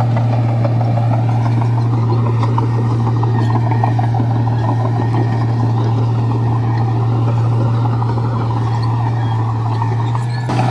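Bulldozer's heavy diesel engine running steadily under load, a deep constant drone with a dense mechanical rumble, its pitch sagging slightly a couple of times.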